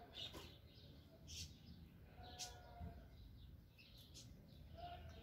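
Near silence with a few faint, short bird chirps, about one a second.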